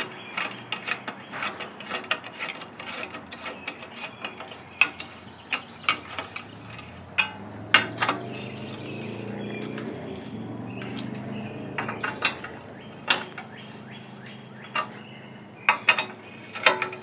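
Irregular sharp clicks and knocks of hand work on the Gravely's engine parts during reassembly, with a low hum that swells and fades in the middle.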